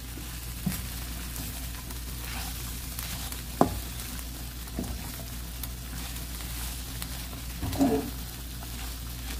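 Dried anchovies stir-frying in a pan of soy-gochujang seasoning and mayonnaise over low heat: a soft steady sizzle, with a few light clicks of the spatula against the pan, the sharpest about three and a half seconds in.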